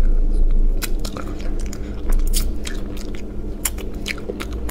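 Close-miked chewing and biting on spicy braised rabbit head, with repeated sharp wet clicks of the mouth and crunching of small bones, loudest near the start and about two seconds in.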